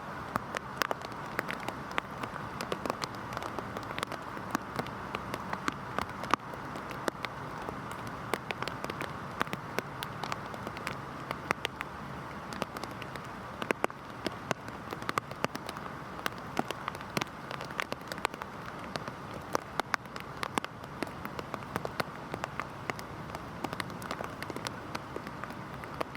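Heavy rain falling steadily, with a constant hiss and many sharp, irregular drop impacts close by.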